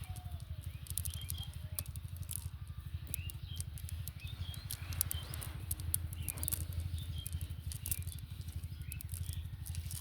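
Outdoor ambience: short, repeated bird chirps over a steady low rumble, with scattered faint clicks and a brief rushing noise about five seconds in.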